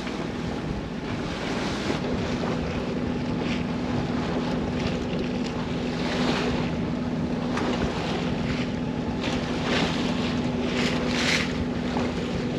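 Wind buffeting the microphone and water rushing and splashing along the hull of a 1965 Alberg 30 sloop under way, with a few louder surges. A steady low hum comes in about two seconds in.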